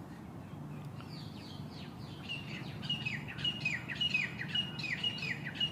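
A songbird repeating the same short call about twice a second: a brief level whistle, then a quick falling slur. It begins a couple of seconds in and grows louder.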